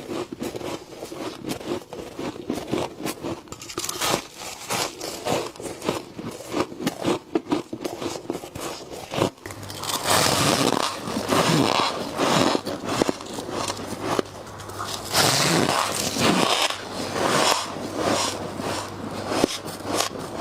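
Close-up crunching and scraping of frost being bitten and chewed, a rapid run of sharp crunches. About halfway through the crunching turns louder and denser, with a faint low steady hum underneath.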